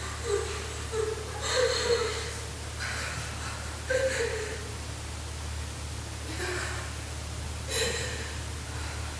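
Several short breathy voice sounds, like gasps or sighs, each about half a second, spaced a second or more apart over a steady low hum.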